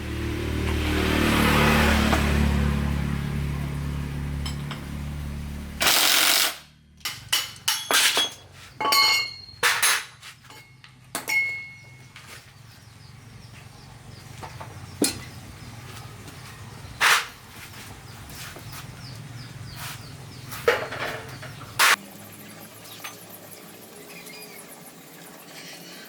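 A motor runs steadily for about six seconds and then cuts off suddenly, followed by a quick string of sharp knocks and clicks and then occasional single knocks.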